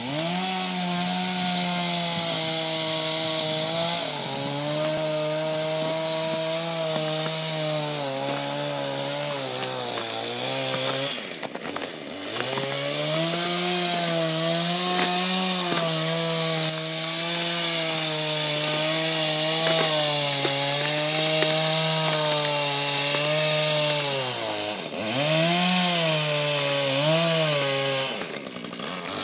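A small engine running with a steady pitched drone, its speed wavering up and down and dropping away briefly twice: once about eleven seconds in and once about twenty-five seconds in.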